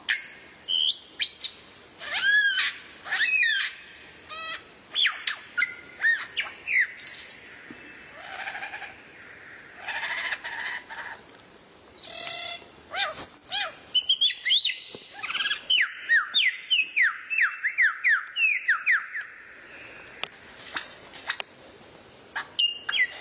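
A songbird singing a varied string of sharp whistles and chirps that slide in pitch. Past the middle comes a quick run of repeated downward-sliding whistled notes.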